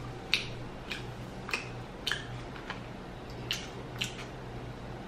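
Close-miked chewing of food: a string of short, wet mouth clicks and smacks about every half second, over a faint steady low hum.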